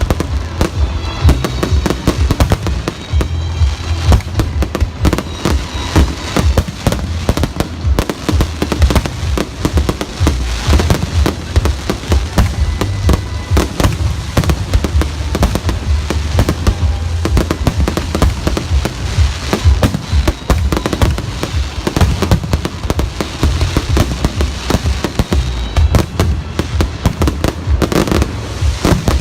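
Fireworks display going off without a break: a dense, irregular run of bangs and crackles, with music playing underneath.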